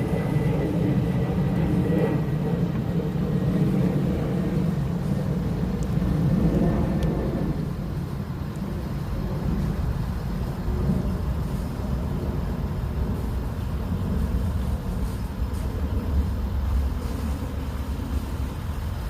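Boeing 767 twin jet engines at takeoff power, a heavy rumble that thins out after about seven and a half seconds as the aircraft climbs away, leaving a low distant rumble.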